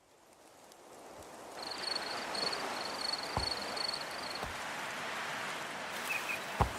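Steady outdoor noise fading in over the first two seconds and then holding, with a high trill for about three seconds and a few short knocks.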